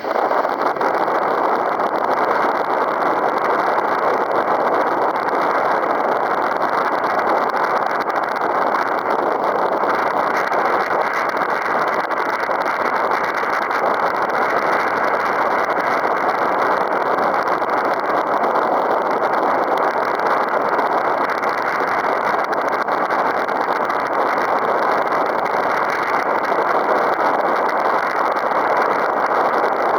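Strong wind rushing steadily over the microphone, a constant noise without gusting breaks.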